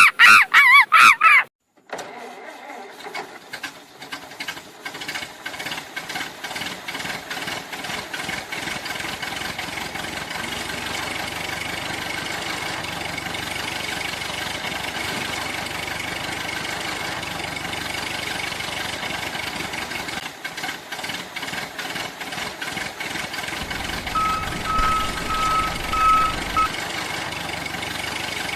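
A loud warbling tone for the first second and a half, a brief gap, then an engine starting: uneven chugging that quickens over several seconds into a steady run. A string of short, even beeps comes about three quarters of the way through.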